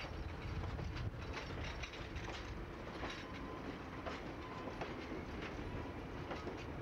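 Passenger cars of a train rolling past at steady speed: steel wheels clicking over the rail joints again and again over a continuous low rumble.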